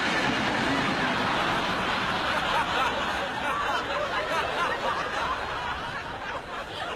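Studio audience laughing, many voices chuckling and laughing together, fading slightly near the end.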